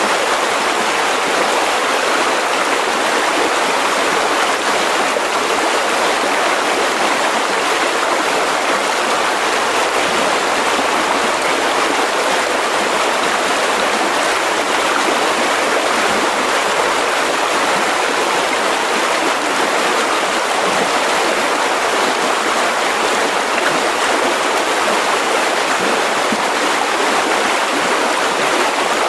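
Mountain river rushing steadily over rocks, a constant even rush of water.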